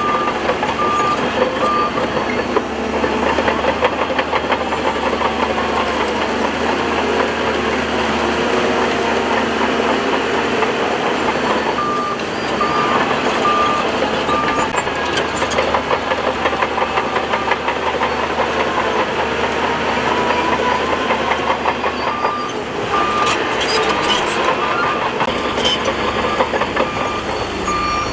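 Bulldozer at work, its engine running under load and rising and falling in pitch. A reversing alarm beeps about twice a second in three spells: at the start, about halfway through and over the last few seconds.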